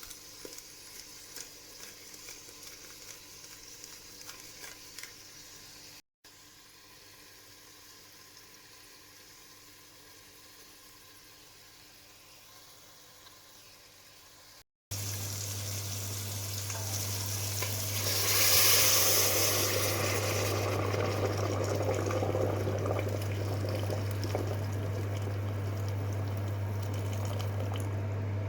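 Stovetop cooking of chicken soup: quiet clicks of utensils, then, after a cut, a steady low hum under the hiss and bubble of a pot on the heat. A louder hiss swells for a couple of seconds about two-thirds through.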